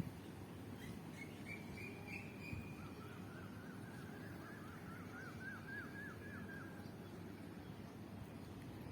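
A songbird singing: a thin high note, then a run of quick, repeated chirps that grows louder, over a steady low background rumble.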